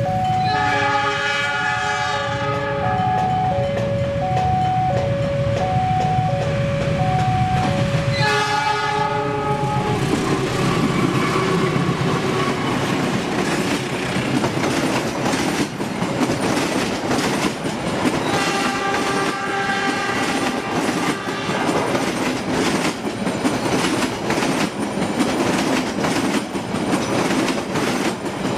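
Lodaya passenger train approaching and passing on the rails. Its locomotive horn sounds near the start, again about 8 seconds in, and once more about 19 seconds in. Over the first 8 seconds an electronic warning chime alternates between two tones, and after about 10 seconds the steady rumble and clickety-clack of the passing wheels takes over.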